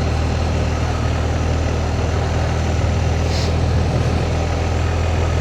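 Motorcycle engine running steadily at an unchanging pitch.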